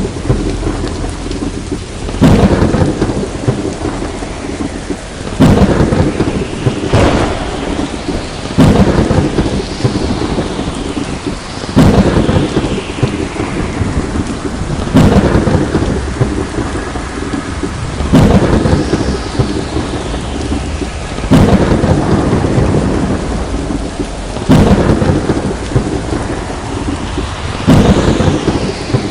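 Steady heavy rain with thunder cracking and rumbling at very regular intervals, about every three seconds, nine strikes in all.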